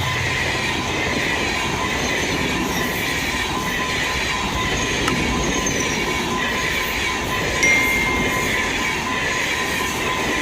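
Passenger train hauled by a Henschel diesel locomotive running at speed: a steady rumble of wheels and cars on the rails with a thin high squeal over it. About seven and a half seconds in, a brief louder high tone cuts through.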